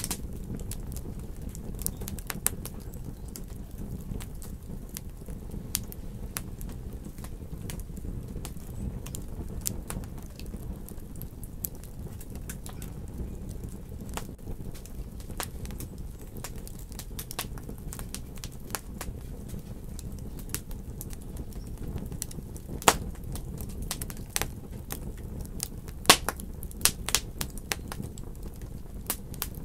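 Wood fire in a fireplace crackling over a steady low rumble, with scattered small snaps and a few louder pops near the end.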